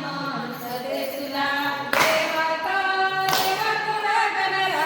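Group of women singing a folk song together, holding long sung notes, with two sharp claps about a second and a half apart in the middle.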